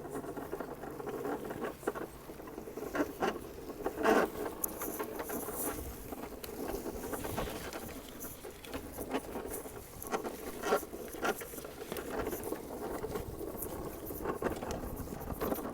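Irregular rustling and crackling of dry leaves and brush, with scattered sharper snaps throughout.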